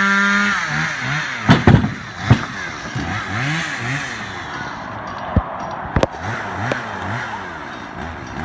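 A motor revving up and down over and over, with a few sharp clattering knocks as logs are handled.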